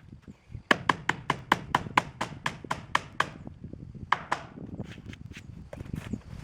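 Hammer driving a nail into pole-barn siding: a quick run of about a dozen strikes, roughly four a second, then a few slower, spaced blows.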